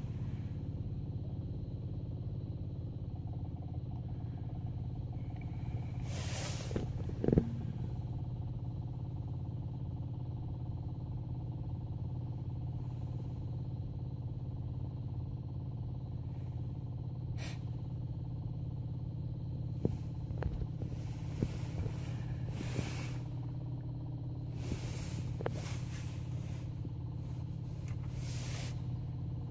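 BMW 120d's four-cylinder turbodiesel idling steadily just after a cold start, with a few brief knocks, the loudest about seven seconds in.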